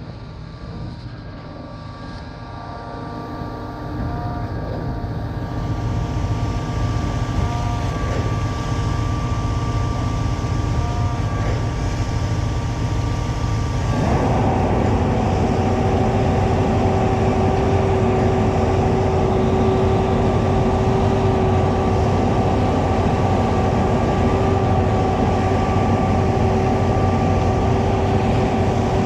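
Concord 40-metre Z-boom concrete pump truck running steadily while pumping concrete, its engine note growing louder over the first few seconds and stepping up to a higher, stronger pitch about halfway through.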